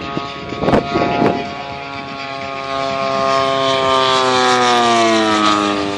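Propeller-driven petrol engine of a giant-scale radio-control aeroplane passing by in flight, its tone swelling and then falling steadily in pitch as it goes past. A few sharp knocks about a second in.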